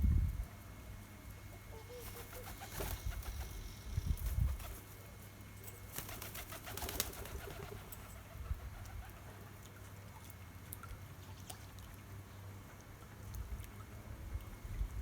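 A dove cooing softly, mixed with short chirps of small birds at a garden feeder, and a few low rumbling bumps.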